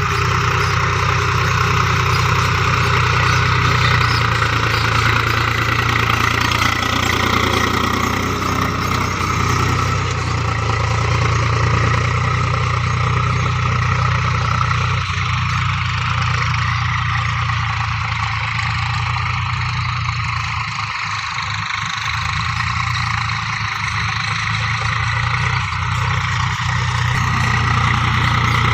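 Tractor engine running steadily under a constant note, easing slightly for a few seconds about two-thirds of the way through.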